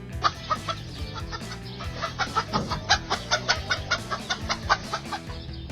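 A chicken clucking rapidly, a quick run of short sharp clucks at about five a second, over background music.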